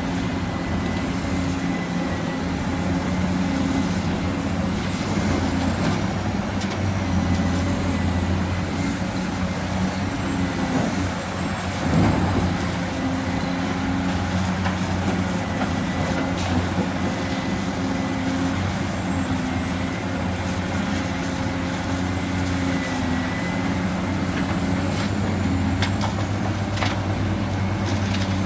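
Radio-controlled construction models running: a steady high electric-motor whine that dips briefly every few seconds under changing load, over a low engine-like hum, with one louder knock about halfway through.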